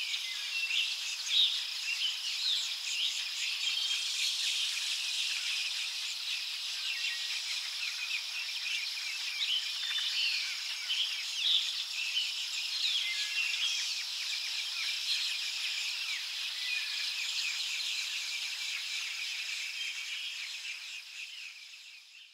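Many wild birds chirping and calling over a steady, high insect trill, fading out near the end.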